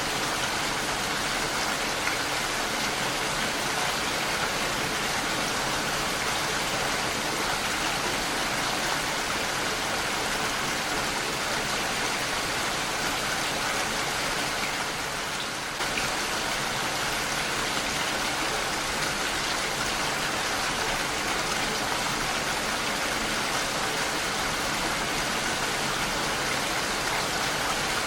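Heavy rain falling steadily on a window, an even hiss of dense drops that dips briefly a little past halfway.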